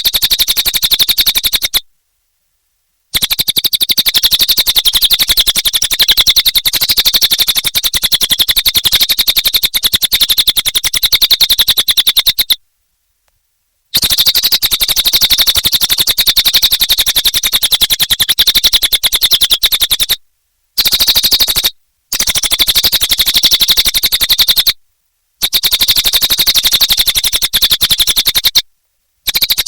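Cililin songbird singing a fast, buzzy, rapid-fire trilling chatter, high-pitched and even, in long runs that stop and start abruptly with dead-silent gaps between them, as in an edited or looped recording.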